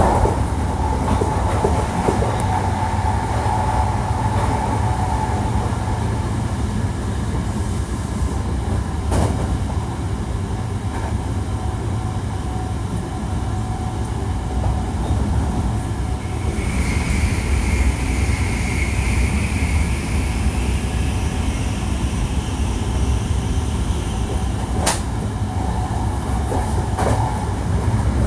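Hankyu 1300 series electric train running at speed, heard on board: a steady low rumble of wheels and traction gear, with a faint motor whine from its Toyo IGBT inverter drive that fades in the first few seconds. A couple of sharp clicks from the wheels passing over rail joints.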